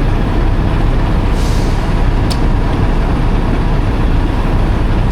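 Low, steady rumble of an idling diesel semi-truck, with a short hiss about a second and a half in and a faint tick soon after.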